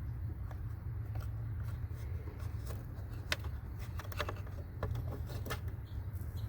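Old cabin air filter being twisted and pulled out of its plastic housing: irregular scraping, rustling and clicking of the pleated filter and plastic, over a steady low hum.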